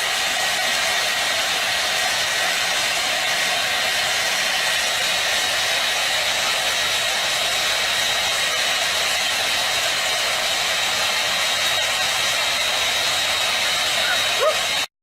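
Steady, loud rush of air from a small motor, like a hair dryer or blower, with a thin high whine over it; it starts and cuts off abruptly. A short rising squeak sounds near the end.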